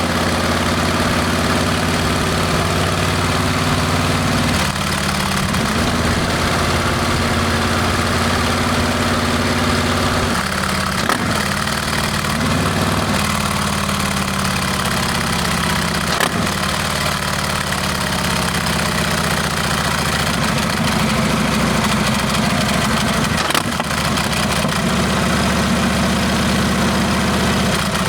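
Harley-Davidson Milwaukee-Eight V-twin running through a Rinehart exhaust: a loud, steady low exhaust note whose pitch drops and rises several times as the engine speed changes.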